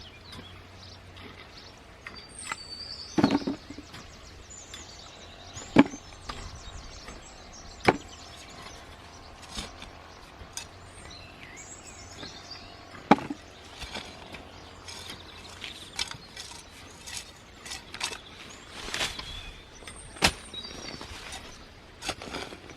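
Irregular sharp knocks and thuds from digging up new potatoes by hand, about five loud ones scattered among many small ones.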